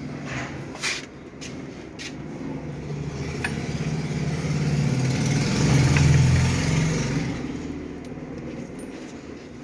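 A motor vehicle passing by: its engine hum swells over a few seconds, peaks midway and fades away. Two sharp clicks in the first two seconds.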